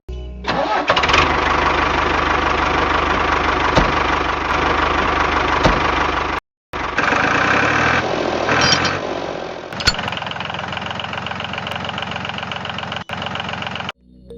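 A small engine running steadily, cutting out abruptly for a moment about six and a half seconds in and again just before the end.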